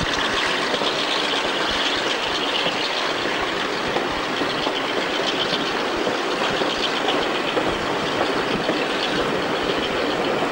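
Passenger train running at speed, heard from an open carriage window: a steady rush of wheel-on-rail noise and wind.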